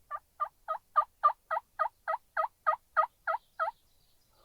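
Turkey yelping: a long run of about thirteen evenly spaced two-note yelps, about three and a half a second, that stops a little before the end.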